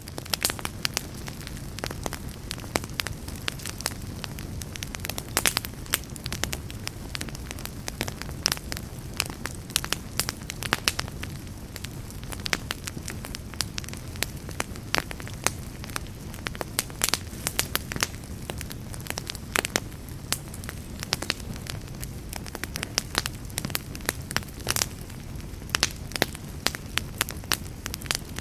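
Wood fire in a fireplace crackling, with frequent irregular sharp pops over a steady low rumble of burning.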